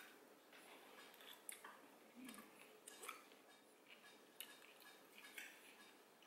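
Faint, scattered clicks of cutlery against plates during a meal, several light ticks spread irregularly.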